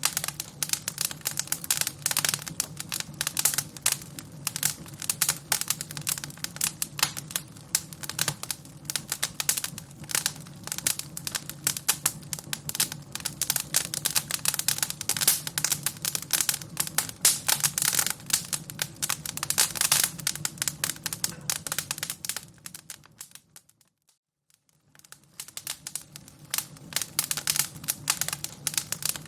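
Fire crackling, with a dense run of irregular pops and snaps over a low steady hum. About 24 s in, it fades down to near silence for a second or two and then fades back in.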